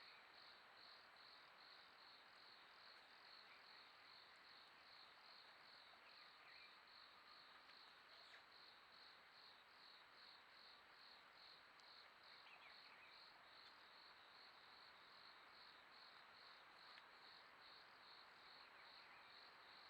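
Faint insect chirping, a steady high-pitched pulse repeating about twice a second, over a low hiss.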